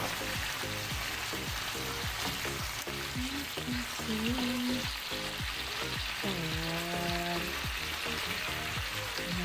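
Chicken livers and boiled eggs sizzling steadily in a thin sauce in a nonstick frying pan, stirred with a wooden spatula.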